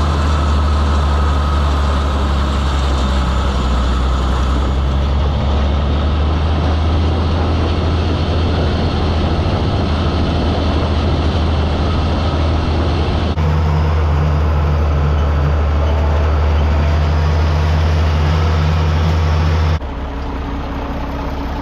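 A vehicle engine running steadily with a deep, even drone and driving noise over it. The sound changes abruptly twice, once about two-thirds of the way through and again near the end, where it drops and is quieter.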